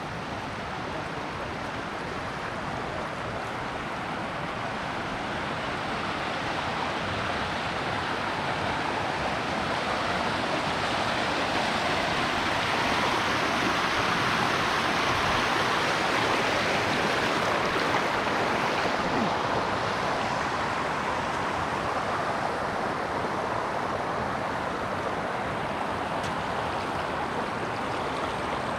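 Waterfall water rushing steadily over rock, growing louder toward the middle and easing a little near the end.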